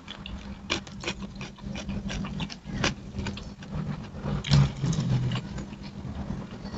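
Close-up eating sounds of a person chewing rice and fried chicken eaten by hand: irregular wet mouth clicks and lip smacks. A faint steady low hum runs underneath.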